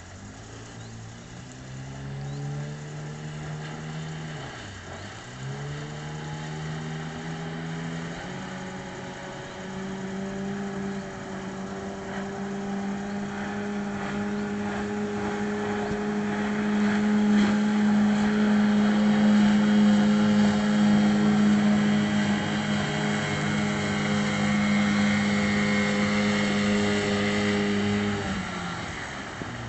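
Parsun 9.8 outboard motor revving up, easing off briefly about five seconds in and rising again, then running steadily at high revs for about twenty seconds before the throttle is cut near the end.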